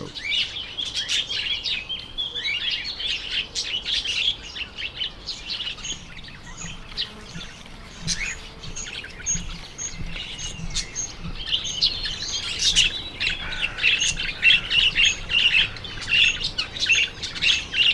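Budgerigars chattering: a dense run of quick chirps and warbles, thinner in the middle and busier again in the last few seconds.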